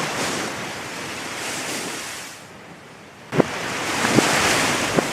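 A rushing noise that swells and fades like surf, dying down around the middle and rising again, with a few sharp clicks in the second half.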